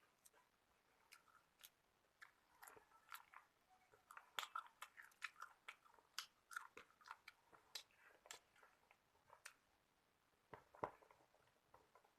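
Close-up eating sounds: a person chewing food, with many short wet clicks coming quickly in the middle and a louder cluster near the end.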